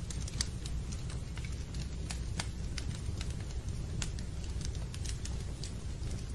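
Fireplace wood fire crackling: irregular sharp pops and snaps over a steady low rumble of burning.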